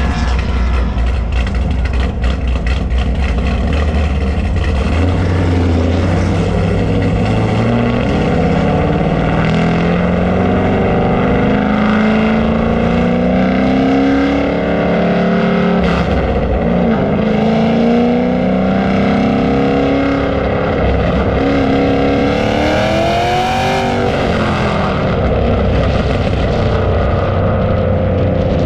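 Muscle car engine on a drag strip, running low and steady, then accelerating hard. Its pitch climbs in several rising runs with drops between as it shifts up through the gears, with a last steep climb near the end.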